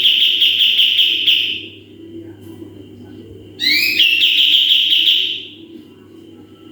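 A kapas tembak songbird calling in loud bursts of rapid trilled, whistled notes, each opening with a few quick rising sweeps. One burst ends about two seconds in and another runs from about halfway to near the end.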